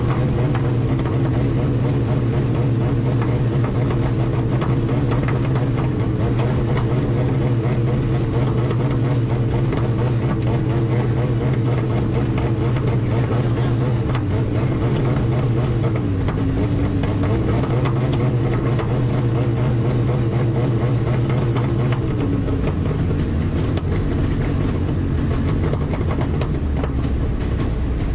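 Light aircraft's piston engine heard from the cockpit, running at a steady note. The pitch sags briefly about 16 seconds in, then falls to a lower, rougher note about 22 seconds in.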